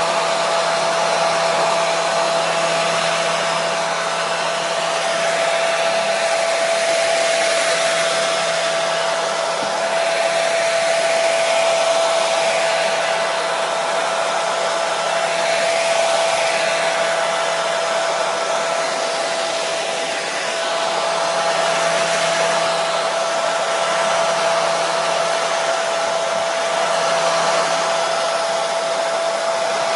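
Hair dryer running steadily: an even blowing hiss with a constant motor whine, used as white noise to soothe a colicky baby.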